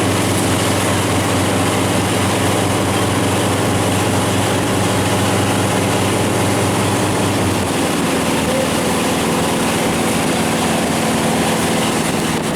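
A watercraft engine running steadily under a wash of wind and water noise. About two-thirds of the way through, the deepest part of the engine hum drops away and the engine note changes.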